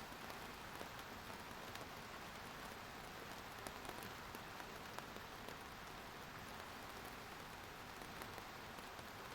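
Steady rainfall, an even hiss with many individual drops ticking on a surface.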